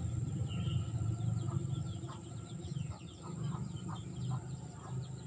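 Birds chirping and clucking softly in many short calls over a steady low hum.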